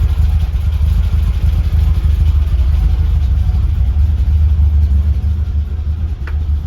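1967 VW split-screen bus's air-cooled flat-four engine running steadily at idle, a deep even rumble, freshly serviced with new HT leads and spark plugs; the owner thinks its twin carburettors still need setting up. A faint click sounds about six seconds in.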